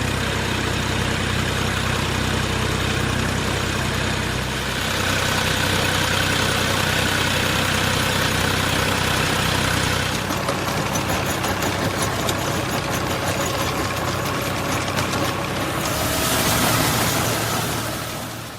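An engine running steadily; its note shifts about five seconds in and again about ten seconds in, swells near the end and then fades out.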